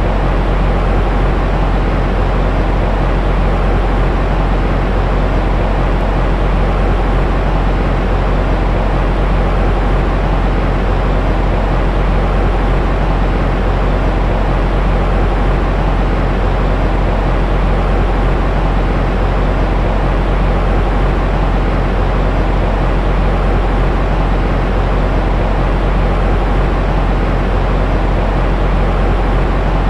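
Continuous baby sleep-aid white noise: a steady low rumbling hiss, heaviest in the bass and thinning toward the highs, that never changes.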